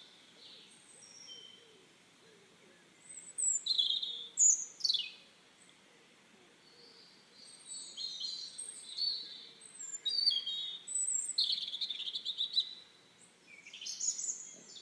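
Birds singing, a run of high chirps and trills in several phrases, with a faint steady background hiss.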